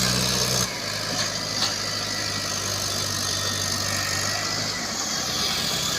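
Mahindra Arjun 555 tractor's diesel engine running steadily with a low hum. It drops a little in level under a second in.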